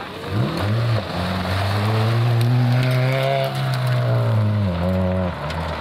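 Rally car engine at high revs: its pitch swoops briefly, then climbs steadily and falls away, with a sharp drop and recovery near the end.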